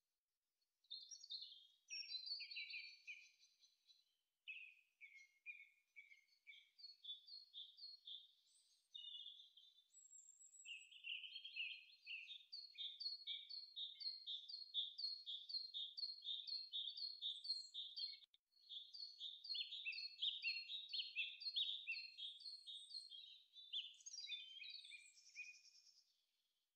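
Songbirds chirping and singing: long runs of quick, high repeated notes, a few a second, with short breaks between phrases.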